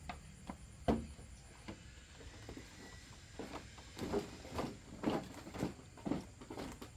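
A run of short thuds: a few scattered at first, then about two a second from about halfway.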